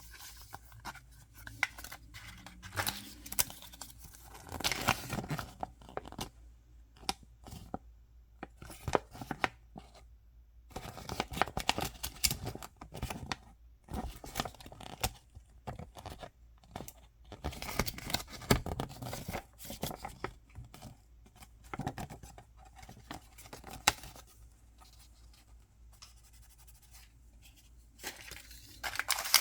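Toy packaging being torn open and crinkled by hand, in irregular rustling spells with small clicks and quiet gaps between, the crinkling growing louder near the end.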